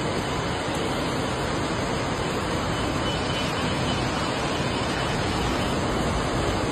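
Rushing floodwater: a steady, even wash of noise with no distinct events, which cuts off suddenly at the end.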